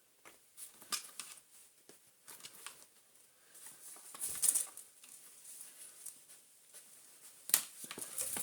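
Plastic filter housing from a Miele Blizzard CX1 vacuum cleaner being prised apart by hand. Irregular small clicks and scrapes, a longer scraping about halfway through, and a sharp click near the end.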